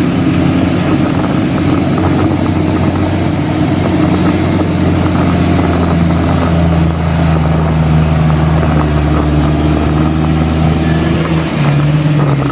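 Heavy vehicle's engine running steadily under load with a low, even hum, its pitch shifting slightly near the end.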